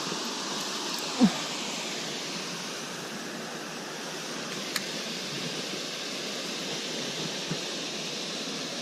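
A steady, even rushing noise, with a short voice-like sound about a second in and a faint click near the middle.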